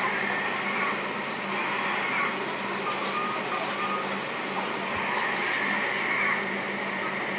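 Radio-controlled construction truck running: a steady mechanical whine over a low hum.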